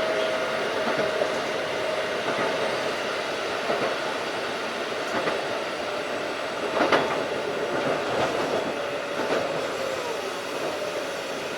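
Running sound of a Keikyu 1500 series field-chopper-controlled electric train travelling at speed: a steady rumble of wheels on rail with a steady motor whine, and a sharp clatter about seven seconds in.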